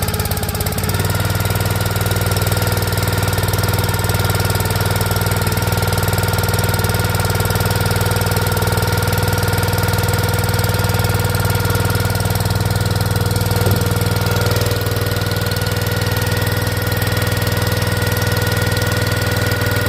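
Predator small gas engine on a log splitter running steadily just after a choked cold start, having sat out overnight in below-freezing temperatures. It settles to an even speed about a second in.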